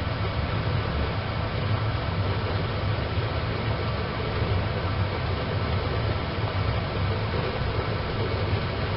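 Wood fire burning in a small wood stove, a steady low rumbling rush of flame with no distinct crackles.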